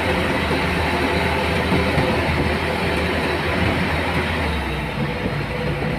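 A machine engine running steadily under a dense mechanical rattle, its low hum shifting about four and a half seconds in, typical of rice-harvesting machinery at work.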